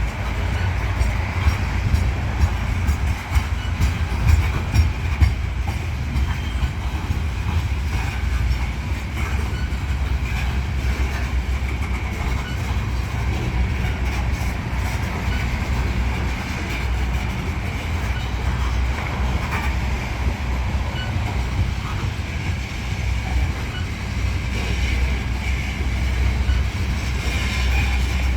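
Freight train cars rolling past on the rails: a steady low rumble with repeated clicking of wheels over the track.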